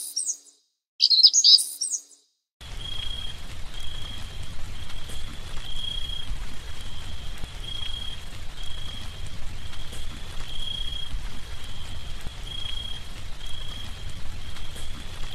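Bird calls outdoors: a short chirping call right at the start and another about a second later. Then a steady outdoor hiss sets in, with a single high, thin note repeating about once a second.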